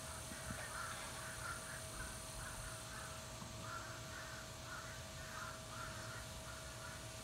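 Birds cawing over and over, about two harsh calls a second, with a thin steady tone beneath them.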